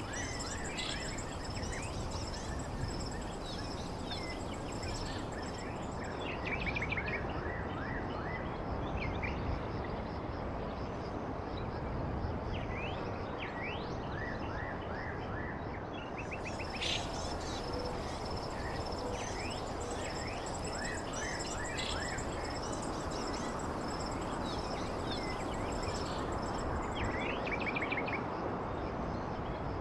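Steady blizzard wind noise, with small birds chirping in quick short notes throughout.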